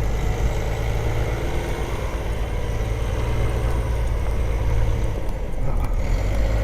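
A heavy truck's engine running steadily at low speed, a constant low hum.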